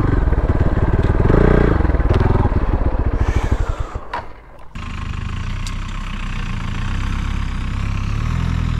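Motorcycle engine running with rapid firing pulses, dropping away briefly about four seconds in, then running steadily again, its pitch rising slightly near the end.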